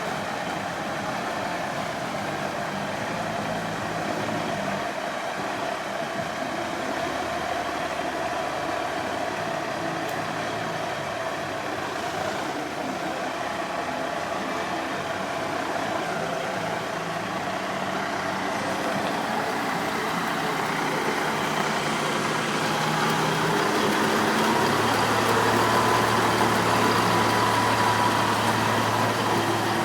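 Large truck engine running at low speed, its low tone shifting up and down in steps, growing louder over the last several seconds.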